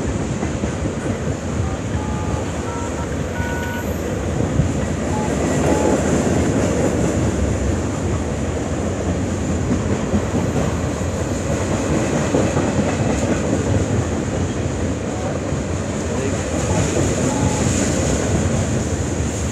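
Freight train of tank cars rolling past: a steady rumble and rattle of steel wheels on the rails.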